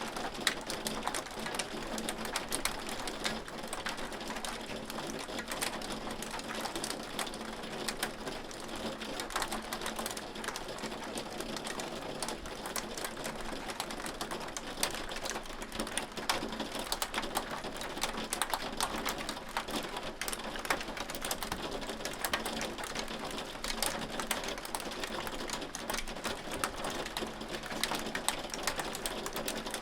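Hailstones falling steadily: a dense, even stream of small clicks.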